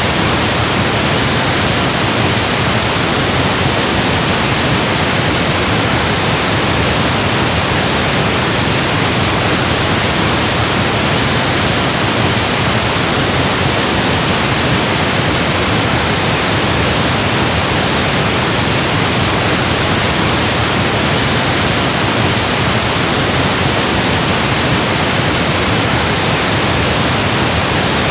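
Steady pink noise: an even, unchanging hiss across the whole range of pitch.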